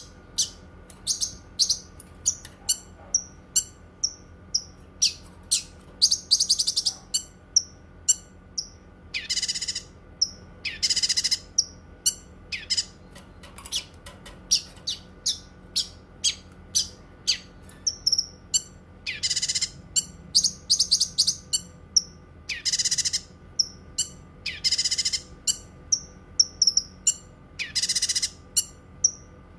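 Cucak kinoi singing: many short, high chirps repeated in quick series, broken every few seconds by longer, harsher bursts of song, over a faint steady hum.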